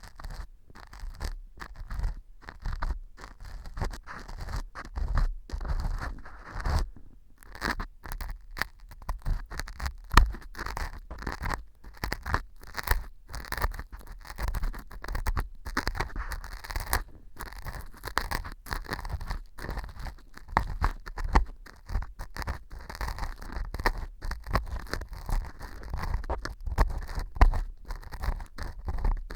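Earpick scraping and crunching at pieces of dry baked wheat gluten (fu) glued into an ear model as fake earwax, in many quick irregular strokes. The glue has soaked into the fu and set it hard, giving a gritty scraping sound.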